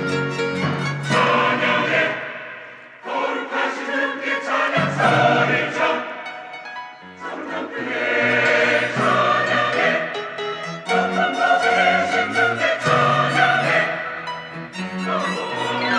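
Church choir singing an anthem in harmony with instrumental accompaniment, with short breaks between phrases.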